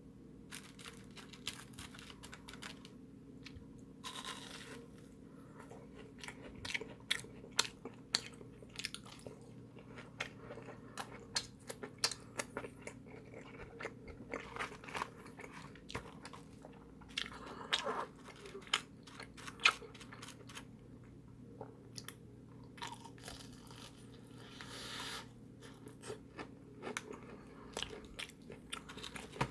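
Close-miked biting and chewing of crispy fried food: irregular sharp crunches of the fried coating, over a steady low hum.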